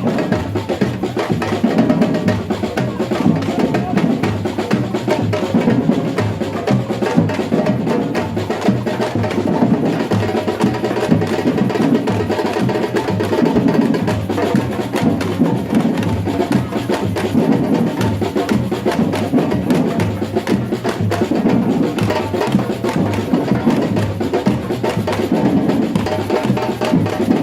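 Batucada samba percussion ensemble playing: deep bass drums beat a steady repeating pattern under a dense, continuous layer of smaller drums and percussion strokes.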